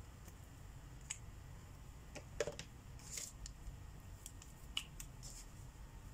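Markers being handled while colouring: scattered light clicks and taps, the sharpest about two and a half seconds in, over a faint low hum.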